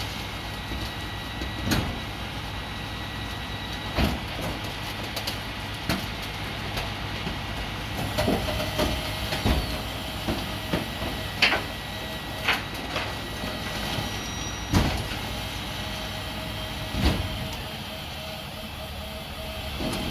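Garbage truck running steadily, with sharp irregular bangs and clanks every few seconds as metal and refuse knock about.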